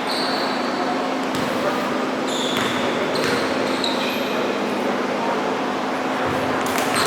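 Basketball game on an indoor court: a basketball bouncing on the floor a few times and sneakers squeaking, over a steady hum and background noise of the gym.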